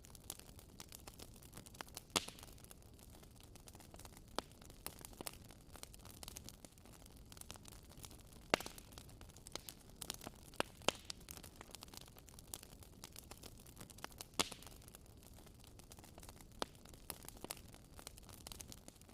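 Fire crackling in a fireplace: irregular sharp pops and snaps over a faint steady hiss.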